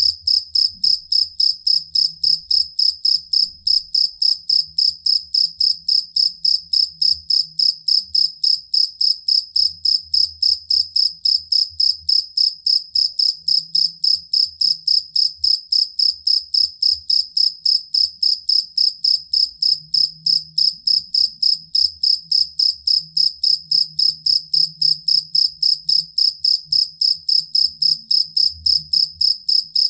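Two-spotted field cricket (jangkrik kalung) singing a steady, even train of short high-pitched chirps, about four or five a second, with no break.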